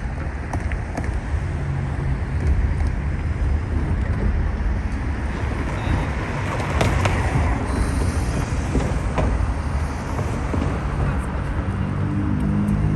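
Steady road traffic: cars passing with a continuous low rumble.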